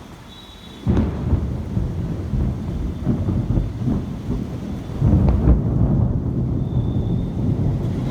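Thunder following a lightning flash: it comes in suddenly about a second in as a long low rumble, which swells again about five seconds in and keeps rolling.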